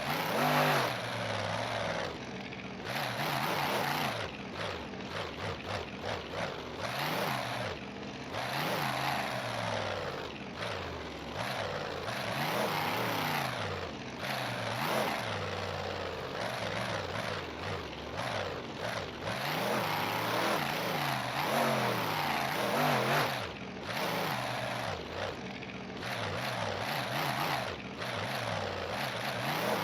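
Monster truck engine revving up and down again and again over a steady wash of noise.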